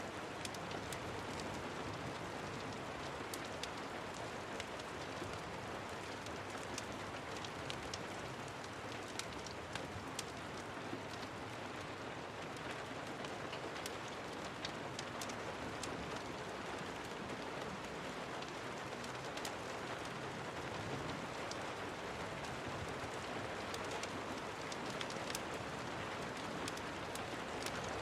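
Steady rain, an even hiss with scattered sharp ticks throughout.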